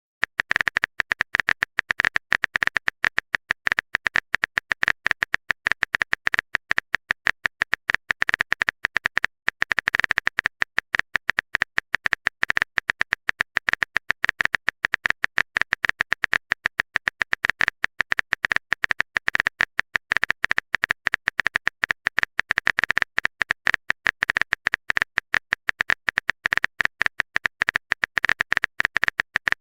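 Rapid, continuous clicking at a steady level, like a keyboard-typing sound effect for messages being typed.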